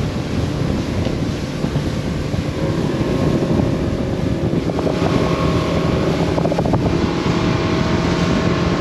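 A fishing boat's main motor running as the boat moves across the water, with wind buffeting the microphone; it grows a little louder about two and a half seconds in.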